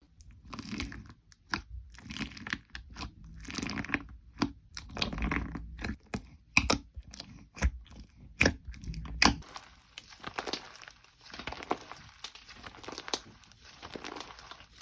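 Slime being squeezed, stretched and pressed by hand, with irregular crackling, sticky tearing and sharp popping clicks. About nine seconds in, the sound turns to a finer, lighter crackle.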